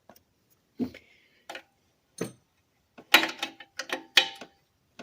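Hand tools clinking and knocking on metal while the golf cart engine's exhaust pipe is being unbolted: a few separate clinks, then a busier run of them about three seconds in, some with a brief metallic ring.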